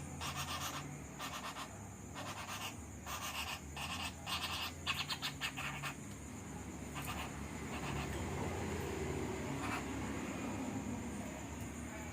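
A young flameback woodpecker giving a series of short, harsh rasping calls, roughly one or two a second, that thin out to a few single calls after about five seconds.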